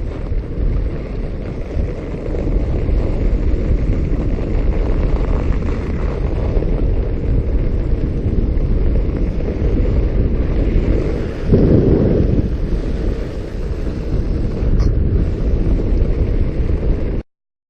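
Wind rushing over the microphone with the rumble of a fat bike riding a groomed snow trail, swelling louder for about a second around twelve seconds in. The sound cuts off abruptly near the end.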